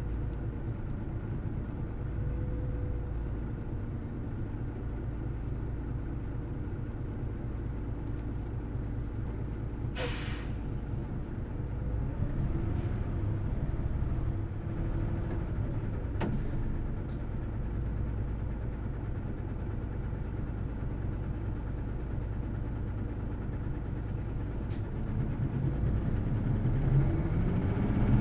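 Inside a Hino Blue Ribbon City Hybrid diesel-electric city bus under way: steady engine and road rumble, with a few short bursts of hissing air about ten, thirteen and sixteen seconds in. Near the end the engine note rises and grows louder as it revs up.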